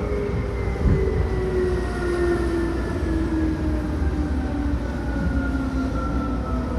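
Running sound inside a Seibu New 2000 series electric train: traction motor and gear whine falling steadily in pitch as the train slows, over the rumble of the wheels on the rails. A single thump from the track comes about a second in.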